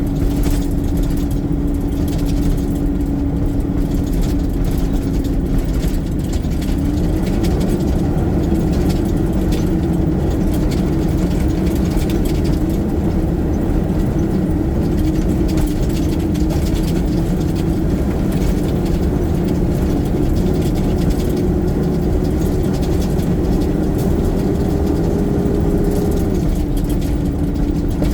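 Garbage truck's diesel engine running steadily. Its speed steps up about seven seconds in, climbs slowly, then drops back to the lower speed near the end.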